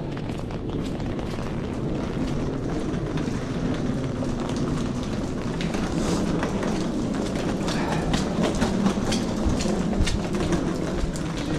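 Heavy rain falling steadily, with many sharp close drops ticking from about halfway through, over a low rumble that swells through the middle.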